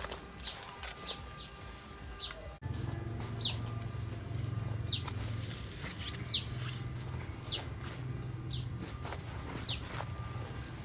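Outdoor ambience: a bird repeating a short falling chirp about every second and a half over a steady high-pitched insect drone. A low hum comes in abruptly about two and a half seconds in.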